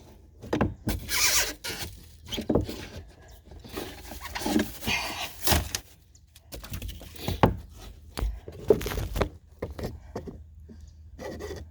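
Old pour-in flotation foam being pried and broken out of a boat hull with a hand tool: irregular scrapes, cracks and knocks, with a few longer scraping stretches.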